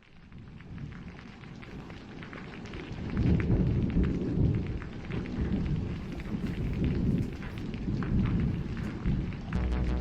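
Recorded rain and rolling thunder swelling up as the opening of an electronic synth track. A steady synth tone comes in just before the end.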